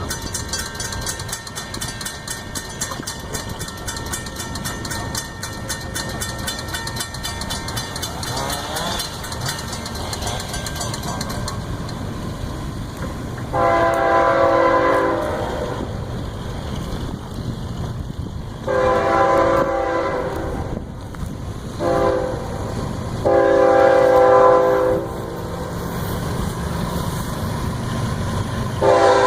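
Florida East Coast Railway locomotive horn sounding the grade-crossing signal, really loud: two long blasts, a short one and a long one, over the steady rumble of the approaching train. Another blast begins at the very end.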